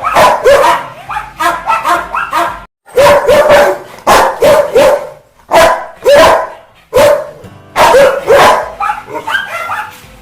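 Rottweiler barking aggressively in rapid runs of loud, deep barks, with short pauses between runs.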